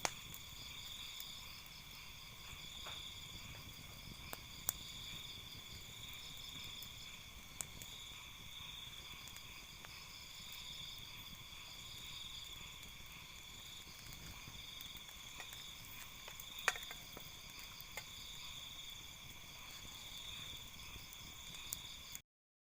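Night forest insects, crickets among them, trilling steadily in several high pitches, some in fast pulses, with a few sharp clicks.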